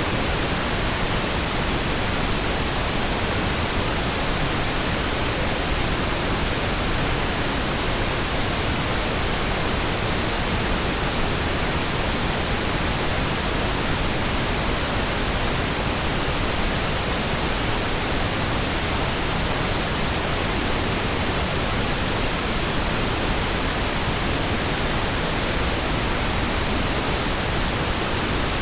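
Continuous pink noise: a steady, even hiss spread across all pitches, unchanging.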